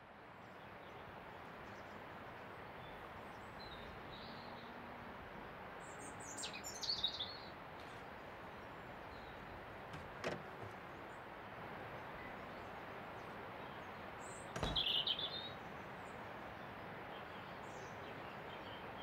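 Outdoor ambience: a steady background hiss with small birds chirping in short high bursts, loudest about seven and fifteen seconds in, and two sharp clicks.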